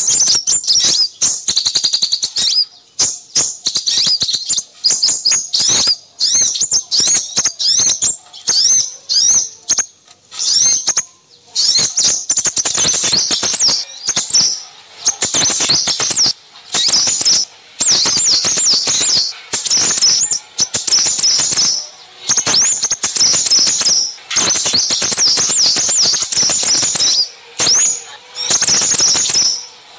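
Recorded chatter of small birds, with rapid high-pitched chirps and twitters packed close together and only short breaks. It is played as a lure call to draw in small birds such as crimson sunbirds.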